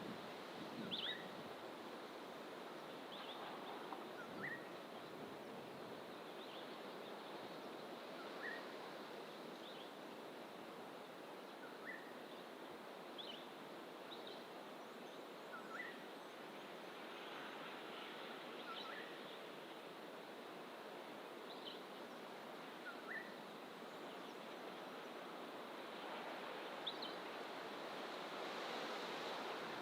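Small birds in coastal fynbos bush giving short, high chirps, one every second or two, over a faint steady rush of distant ocean surf.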